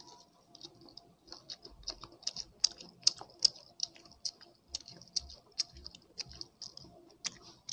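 Close-miked chewing of a mouthful of boiled sweet corn kernels: a steady run of crisp, wet clicks and pops, about two or three a second.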